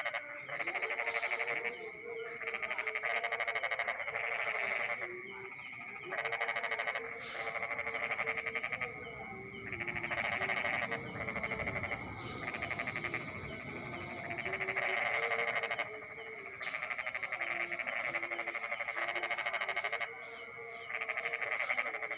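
A night chorus of frogs calling in fast pulsing bouts a second or two long with short pauses between them, over a steady high trill.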